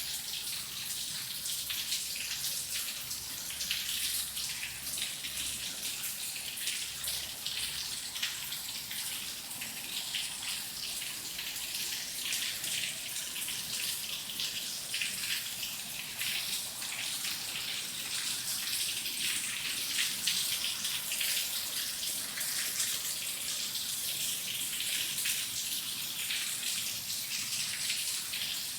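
Steady rain falling: a dense, even patter of drops over a high hiss.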